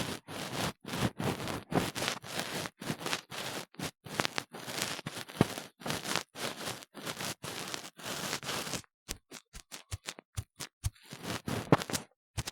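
Close-up scraping and scratching of an ear-cleaning tool worked firmly inside a silicone ear model, in short strokes about two a second. A little past the middle, the strokes give way to quicker, sharper taps for a moment before the scraping resumes.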